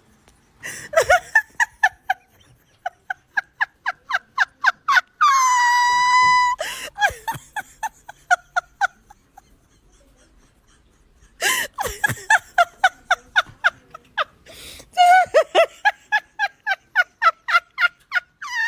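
High-pitched laughter in quick runs of short 'ha' notes, about five a second, in several bouts with pauses between. Twice it breaks into a long, flat, high-pitched cry, about five seconds in and at the very end.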